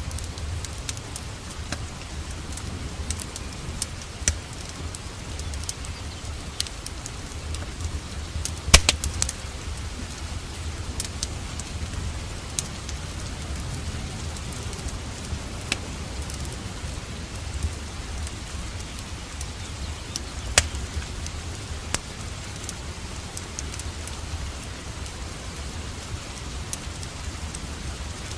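Steady rain with a wood fire crackling over it, scattered sharp pops, the loudest about nine seconds in and again around twenty-one seconds, over a low steady rumble.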